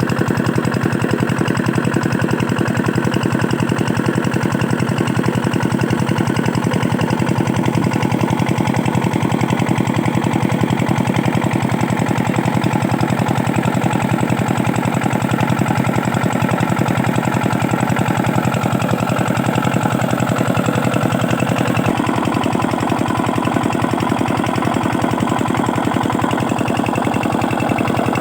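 Usha 5 hp single-cylinder diesel engine running steadily under load, driving an irrigation water pump, with a fast, even beat of firing strokes. The tone shifts slightly about two-thirds of the way through.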